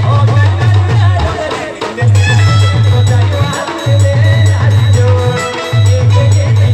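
A band playing an Adivasi folk dance tune. A loud bass figure repeats in short phrases under a wavering melody line, driven by a steady drum beat.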